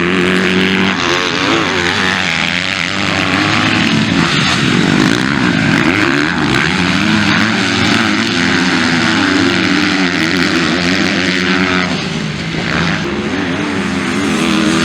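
Several motocross motorcycle engines running together at racing speed, their pitch repeatedly rising and falling as the riders work the throttle. The sound dips briefly about twelve seconds in.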